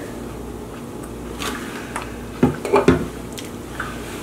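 Close-miked chewing and mouth sounds of someone eating a chicken taco: a series of short clicks, loudest in a quick cluster about two and a half seconds in.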